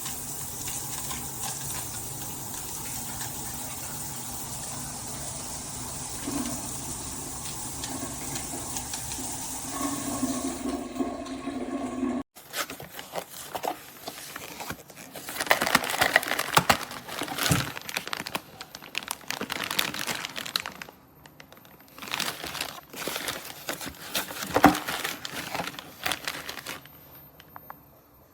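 Handheld rain shower head spraying water steadily. About twelve seconds in the spray cuts off abruptly, and uneven bursts of crackling and splattering noise follow, with short quiet gaps.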